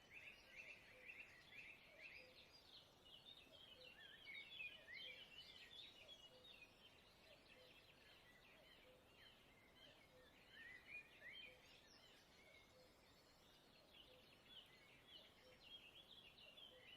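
Faint forest birdsong: quick, high chirps and trills coming in runs, with a soft low note repeating steadily underneath.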